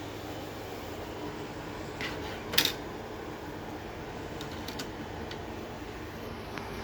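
Steady fan-like hum with a few clicks over it, the loudest a sharp click about two and a half seconds in.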